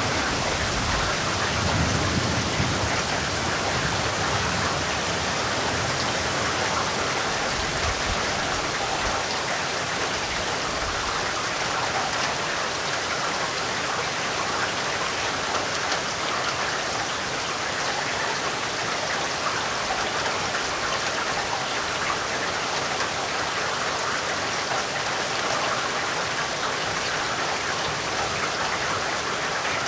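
Steady, dense rainfall pattering on surfaces, with a faint low rumble in the first few seconds.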